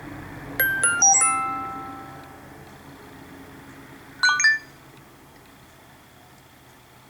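iOS 7 preset alert tone played on an iPod touch: a quick run of four bright chime notes that ring out for over a second, then a short burst of three quick high notes about four seconds in.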